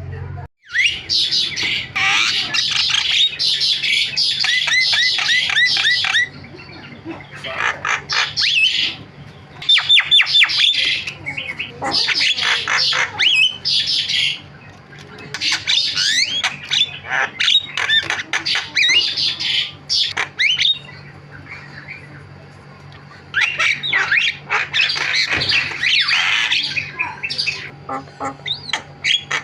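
Javan myna (jalak kebo) singing a varied, chattering song of harsh squawks, quick whistles and rapid repeated notes, in bursts of a few seconds separated by short pauses.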